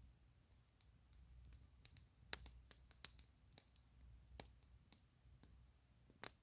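Campfire crackling softly: wood popping in irregular sharp snaps, a few louder ones standing out, over a faint low rumble.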